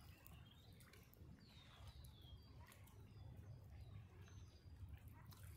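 Faint chirps of small birds: several short, high calls, some sliding downward in pitch, over a steady low rumble.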